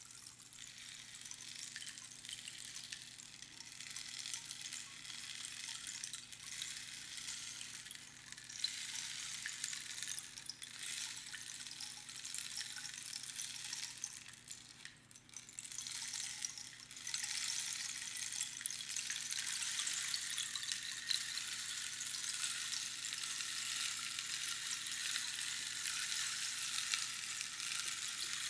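Rainstick being upended again and again: small pebbles trickle down past the pins inside in a dense hiss of tiny patters, like falling rain. There are brief lulls about 8, 10, 15 and 16 seconds in as the stick is turned, and a fuller pour from about 17 seconds in.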